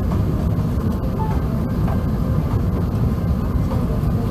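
Steady low rumble of cabin noise aboard an Airbus A380 airliner, even and unbroken.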